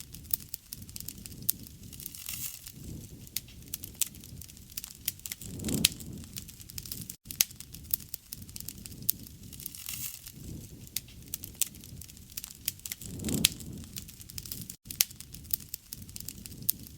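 Wood fire burning: dense crackling with sharp pops and snaps over a low rush of flame that swells every few seconds. The sound cuts out for an instant about every seven and a half seconds.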